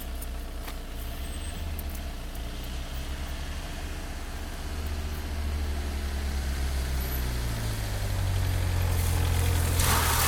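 Car engine running with a low steady drone that grows louder over the second half. A rushing noise comes in near the end.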